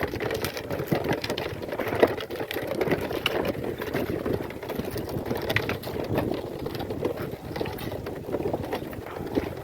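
Goat-drawn cart loaded with firewood rolling along a dirt road, its wheels and wooden frame rattling with a dense run of small knocks and clatters.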